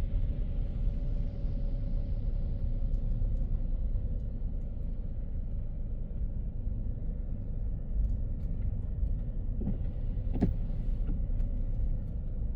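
A car driving on a city road, with a steady low rumble from the tyres and engine. A faint steady whine fades away in the first few seconds. A short rise in hiss with a few light clicks comes about ten seconds in.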